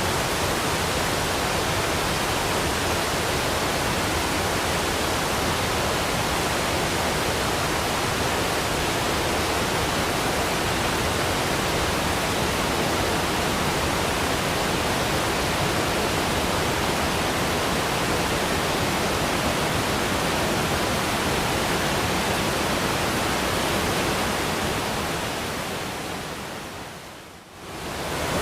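Waterfall: a steady, even rush of falling water. Near the end it fades down to a brief dip and swells back up.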